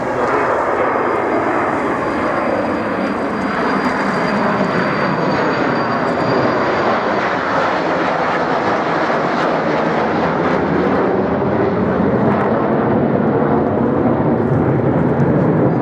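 English Electric Canberra PR9's twin Rolls-Royce Avon jet engines, a steady rushing engine noise as the bomber makes a slow pass with gear and flaps down, growing slightly louder toward the end.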